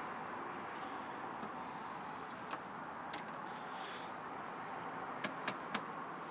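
Miele Novo washing machine running with a steady rushing noise, with a few sharp clicks, three of them close together near the end.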